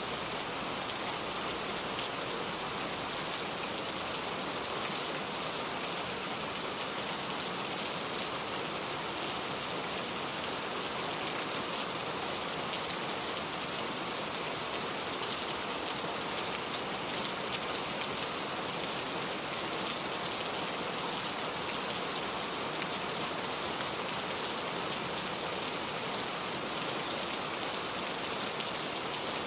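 Heavy rain pouring steadily, a dense even hiss with the fine patter of drops hitting surfaces.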